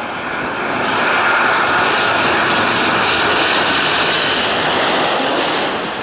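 Airliner passing low overhead. Its engine noise swells about a second in, a whine in it sinks slightly in pitch, and the sound falls away quickly near the end.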